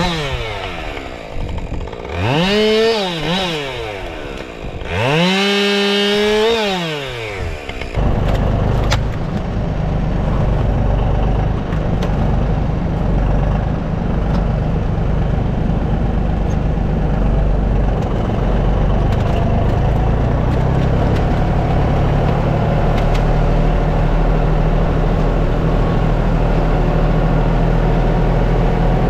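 Chainsaw revved up and dropping back twice, its pitch climbing and falling with the throttle as it cuts through a fallen tree. About eight seconds in it stops abruptly, giving way to a tractor engine running steadily with a low rumble.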